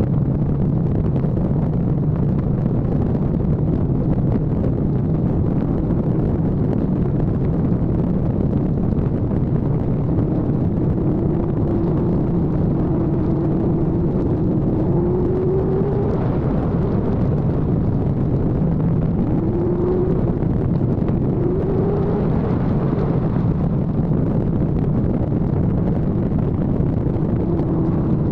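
Kawasaki ZX-14R's inline-four engine running at road speed under heavy wind rush on the microphone, with the engine note rising briefly about halfway through and again a few seconds later.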